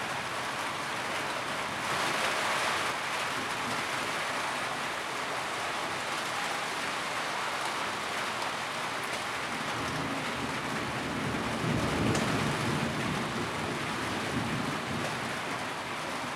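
Steady rain drumming on a tin roof, a dense even patter. A low rumble swells up underneath about ten seconds in and fades a few seconds later.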